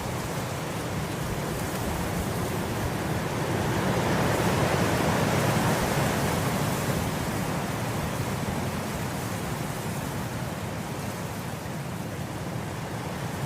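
Wind blowing through grass: a steady rushing hiss that swells about four seconds in and slowly eases off again.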